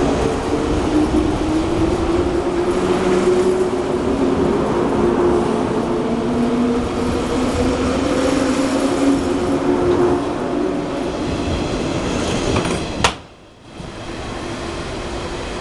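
A 183-series electric train pulls out and runs past: the rumble of wheels on rail under a motor hum that slowly rises in pitch as it gathers speed. About 13 seconds in there is a sharp click and a brief drop-out, after which the quieter sound of the departing train goes on.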